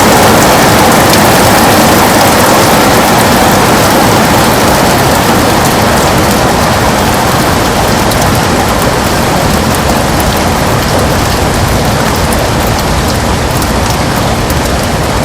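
Heavy rain on a window: a dense, steady hiss of drops that gradually eases a little in loudness.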